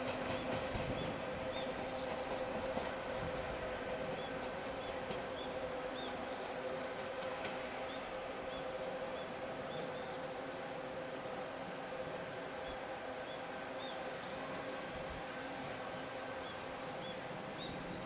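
Insects buzzing steadily and high in a summer chorus, with short chirps repeating irregularly, over a steady low hum.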